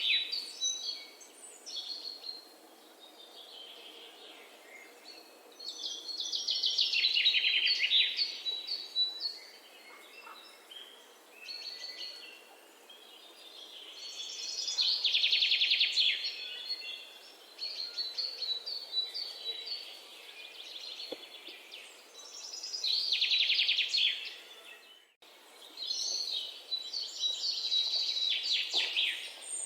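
Songbirds singing: a loud, fast-trilled song phrase of two to three seconds comes back every six to eight seconds, with softer chirps and calls from other birds in between.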